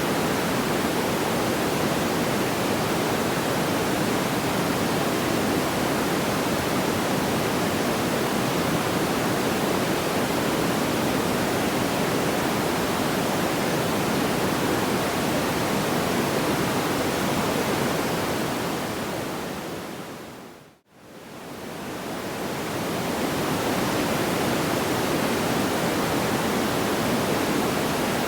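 Steady, even rushing noise, like pink noise or a distant waterfall, with no distinct crackles or pops. About two-thirds of the way through it fades smoothly down to almost nothing and straight back up again, as at the seam of a looped track.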